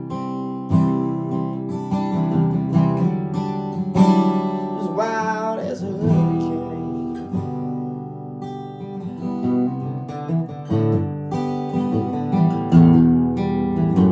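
Acoustic guitar being strummed and picked in a steady run of chords, with a brief wavering wordless vocal note about five seconds in.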